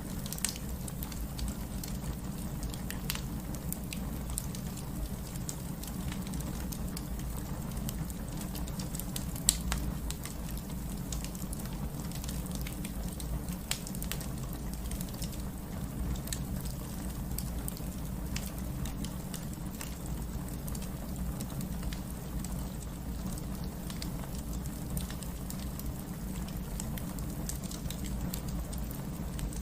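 Wood fire crackling with scattered sharp pops, one louder pop about nine and a half seconds in, over a steady patter of rain.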